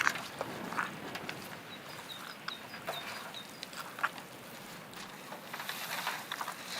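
A small bird chirping in a run of short, high notes, over scattered clicks and knocks of cooking gear being handled, with a short hissing stretch near the end.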